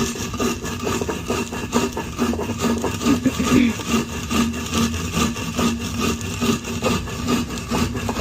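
Roasted coffee beans being ground on a volcanic-rock grinding stone (piedra de moler), a hand stone pushed up and down over the slab: steady stone-on-stone scraping in quick repeated strokes.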